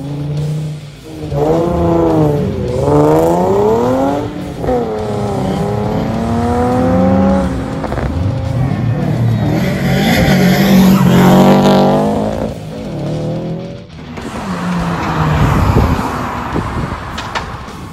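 Modified cars pulling away one after another, engines revving hard and rising and falling in pitch several times. About ten seconds in there is a burst of tyre squeal as a car slides sideways.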